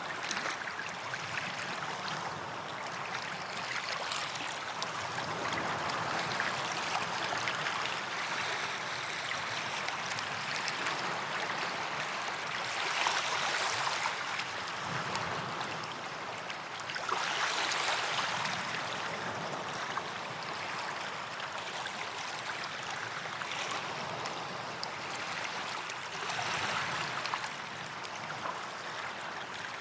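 Small waves breaking and washing up a sandy beach, a swell of surf every few seconds, with about four waves rising and falling in turn.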